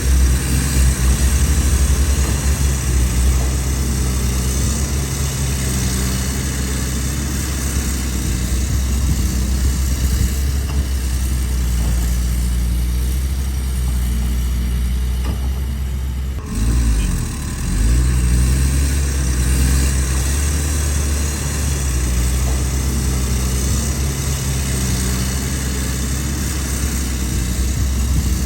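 Excavator's diesel engine running steadily under work, with a brief dip and a wavering change in engine pitch a little past halfway.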